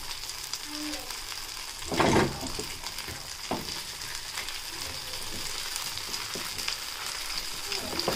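Mashed potato cake sizzling and crackling in hot oil in a skillet, while a silicone spatula presses and shapes it against the pan. There is a louder bump about two seconds in and a smaller one about a second and a half later.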